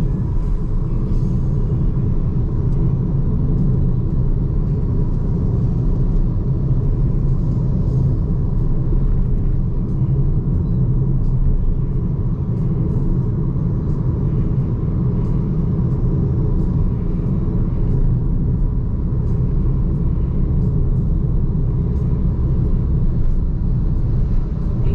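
Steady low rumble of tyre and road noise from a BYD Seagull electric car driving at a constant speed, with no engine note.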